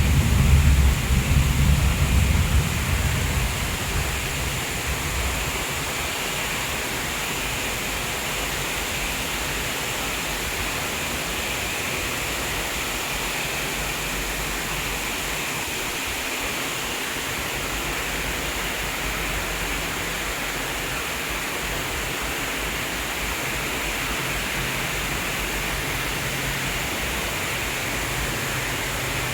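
Heavy rain falling, a steady even hiss. A low rumble fades out over the first few seconds.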